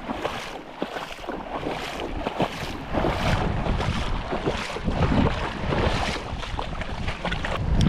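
Wind buffeting the microphone over splashing, rippling river water, the low rumble of the wind gusting harder near the end.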